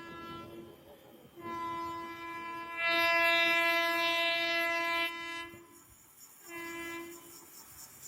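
Indian Railways train horn sounding: a long blast of about four seconds, loudest in its middle, then a short blast near the end.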